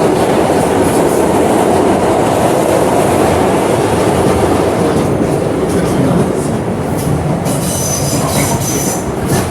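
An R211 subway train running, with a steady loud rumble of wheels on rail. A high, thin wheel squeal comes in about seven and a half seconds in and lasts about a second and a half.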